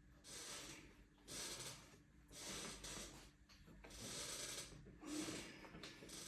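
Faint, noisy breaths from a person, several in a row about a second apart, during deep-pressure massage of the lower back.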